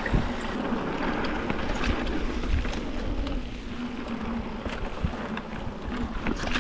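Wind buffeting the microphone and mountain-bike tyres rolling over a dirt trail, with short rattles and clicks from the bike throughout.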